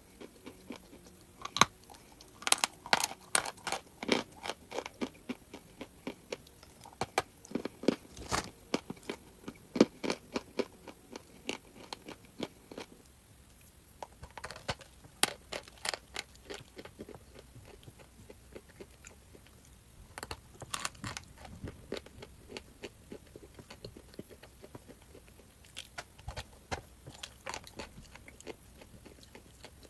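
Crunchy Anko South chalk being bitten and chewed close to the microphone: rapid crackling crunches, dense at first and sparser from about halfway on.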